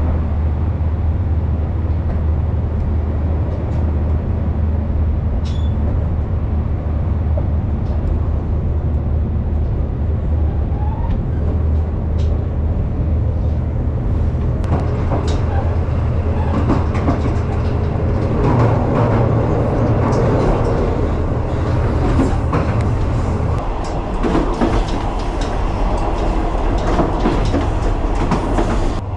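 Yufuin-no-mori diesel railcar running along the line: a steady low drone with wheel clatter and rattling that grows busier about halfway through.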